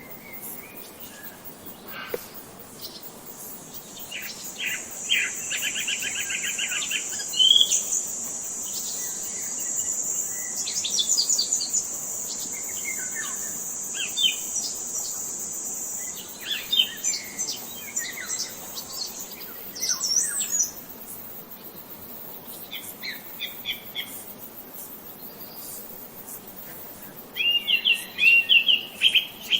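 Songbirds chirping and trilling, with rapid trills and scattered calls and a flurry of repeated chirps near the end. A steady high-pitched hum runs underneath for most of the first two-thirds.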